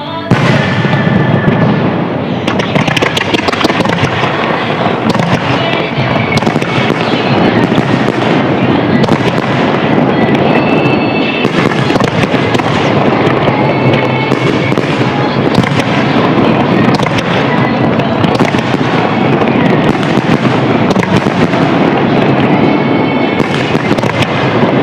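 Dense fireworks barrage: many shells bursting and crackling in quick, overlapping succession without a break, starting suddenly right at the start.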